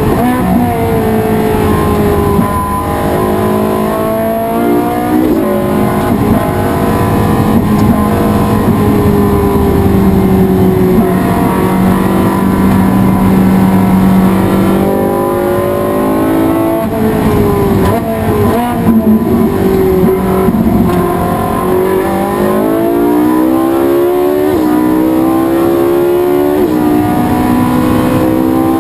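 Race car engine under hard acceleration, its revs climbing and dropping back at each upshift, with a stretch of steady high revs in the middle and a run of quick upshifts near the end.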